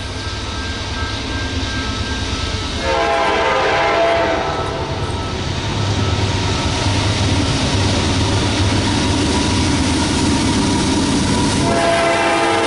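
CSX freight train's diesel locomotives approaching with a steady low rumble. The air horn sounds a chord from about three seconds in for roughly two seconds, then sounds again near the end.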